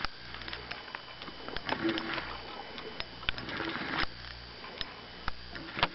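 Spinning fishing reel being cranked during a lure retrieve: light irregular mechanical clicking and ticking with small knocks.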